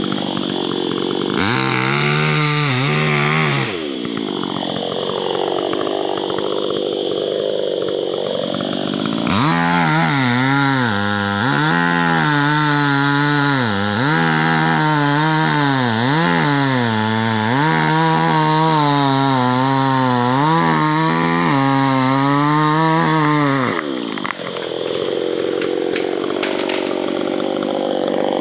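Chainsaw running and cutting a tree. Its engine note keeps wavering and dipping as the chain works through the wood, steadying for longer, low-pitched stretches and lightening between them.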